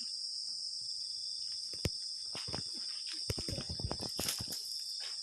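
Steady chorus of crickets, a continuous high-pitched trill. A sharp click comes about two seconds in, and a run of clicks and knocks follows in the second half.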